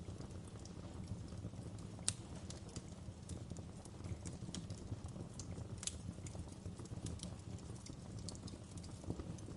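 Wood fire crackling steadily: a low rumble with irregular sharp pops and snaps, two louder pops about two and six seconds in.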